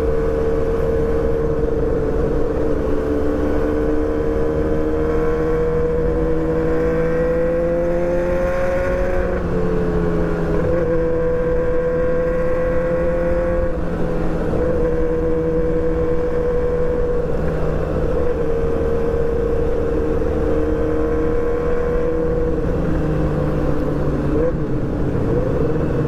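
Yamaha R6 sport-bike engine running under way at fairly steady revs; the pitch creeps up slowly and drops back several times as the throttle is eased or a gear is changed.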